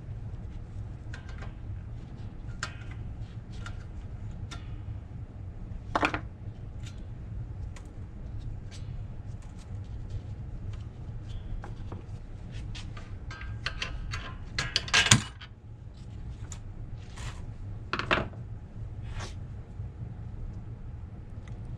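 Hand tools clinking and knocking on the steel parts of a Rolls-Royce Phantom III front brake backing plate assembly as it is taken apart: scattered light metal clicks, with louder knocks about six seconds in, a quick cluster near fifteen seconds and another near eighteen seconds. A low steady hum runs underneath.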